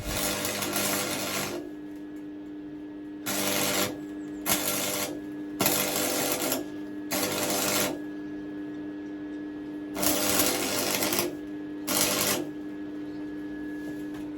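Stick welder arc crackling in about seven short runs of half a second to a second and a half each, with gaps between, as holes in thin steel around the pit bike's swing arm bolt mount are filled with rods. A steady hum runs underneath.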